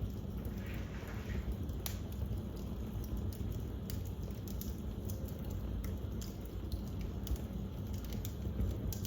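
Wood fire crackling in a fireplace: a steady low rumble of flame with scattered sharp pops and snaps, one louder pop about two seconds in.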